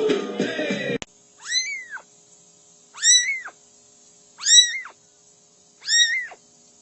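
A cat meowing four times, about a second and a half apart; each meow rises and then falls in pitch. Background music cuts off suddenly about a second in, before the first meow.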